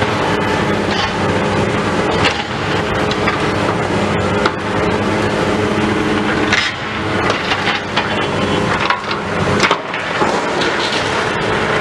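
Demolition machinery's diesel engine running steadily under load, with repeated sharp cracks and crunching of material breaking as the building is pulled down.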